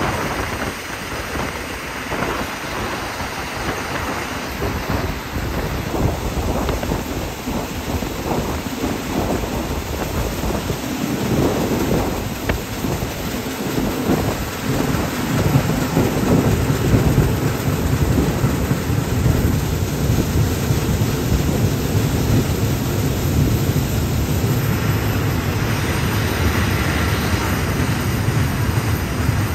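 Thai ordinary passenger train running along the track, heard from inside a carriage: a steady rumble of wheels on rails mixed with wind noise, the low rumble growing heavier about eleven seconds in.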